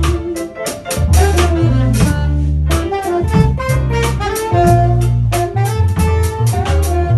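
Jazz band playing: saxophone melody over walking bass, piano, guitar and a drum kit.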